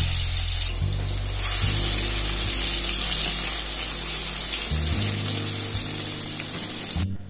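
Tomato pieces and cumin seeds sizzling in hot oil in a steel kadai as they are stirred with a spatula: a loud, even hiss that cuts off suddenly near the end. Soft background music with low held notes plays underneath.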